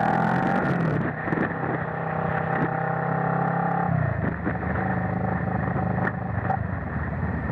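Motorcycle engine running at road speed, heard from a helmet-mounted camera. About four seconds in, the engine note drops, then holds steady again.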